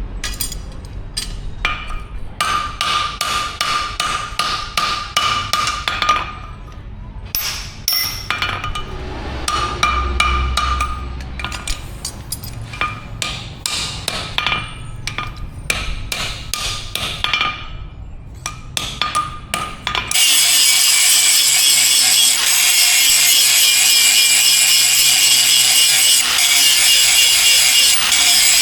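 A hammer striking steel in quick, irregular runs of blows, many of them ringing, typical of forging an axe head. About 20 seconds in the hammering stops and a steady, harsh, high-pitched noise abruptly takes over.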